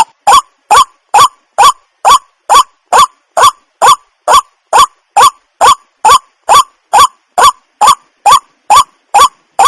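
Waterhen calling: a steady series of short, loud, upward-inflected notes, about two a second.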